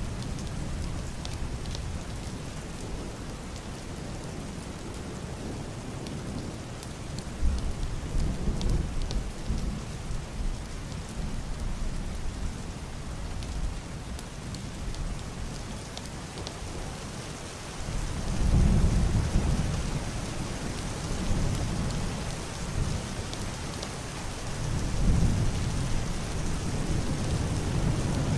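Heavy rain drumming on a roof and washing over window glass, a steady hiss with scattered sharp drop taps. Low, muffled rolls of distant thunder swell up three times: about a quarter of the way in, again about two-thirds in, and near the end.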